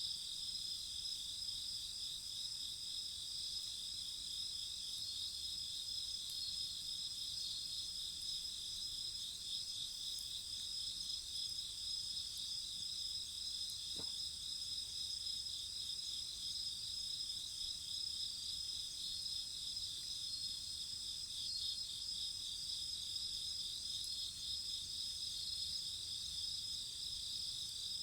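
A steady chorus of crickets and other insects chirping, a fast trill in several high-pitched layers that does not let up. One faint click about halfway through.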